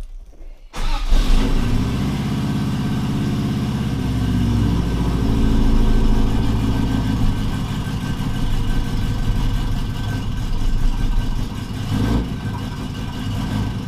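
Subaru Brat's flat-four engine starting on the choke: it catches suddenly about a second in, its pitch shifts over the next few seconds, and then it settles into a steady idle.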